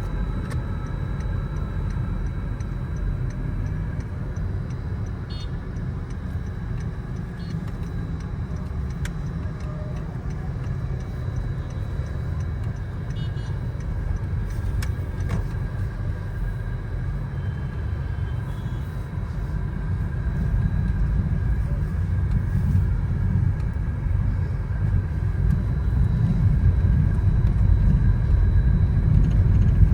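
Car road and engine noise heard inside the cabin of a moving car: a steady low rumble that grows louder in the last ten seconds or so.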